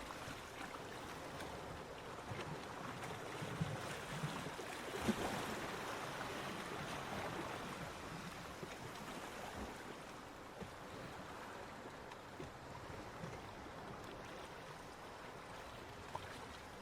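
Surf washing onto a beach, a steady hiss of breaking water. It swells a few seconds in, then slowly eases, with a soft knock or two as it builds.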